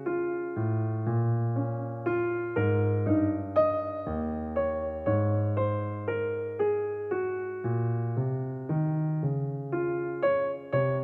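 Background piano music: a calm run of struck chords and single notes, each fading away, over sustained bass notes.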